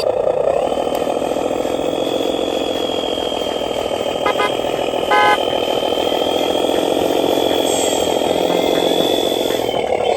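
Remote-control model truck running with a steady motor hum, and two short horn beeps less than a second apart near the middle.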